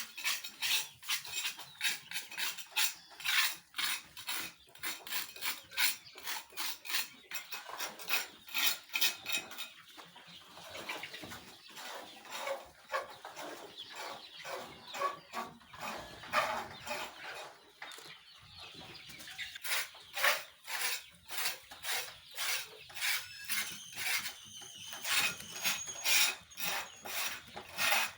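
A pen of young chickens clucking, with many quick scratching clicks throughout and a few clearer higher calls near the end.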